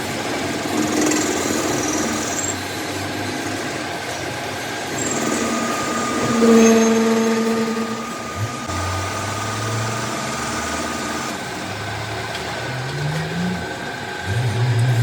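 Motorised machinery running with a steady mechanical noise and shifting hum tones, swelling louder about six seconds in and with a tone rising in pitch near the end.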